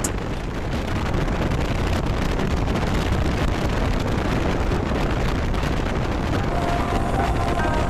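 Steady wind and road noise of a motorcycle riding at speed on a highway, wind rushing over the microphone.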